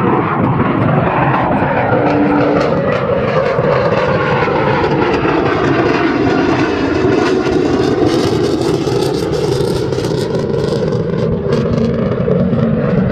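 F-35A Lightning II's single afterburning turbofan heard from the ground as the jet flies its display, a loud continuous rush whose pitch bands sweep slowly as it moves past. A harsh crackle builds from about eight to eleven seconds in.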